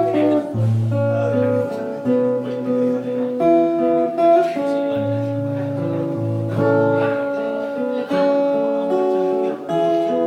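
Acoustic guitar playing a slow melody over bass notes, fingerpicked with some strums.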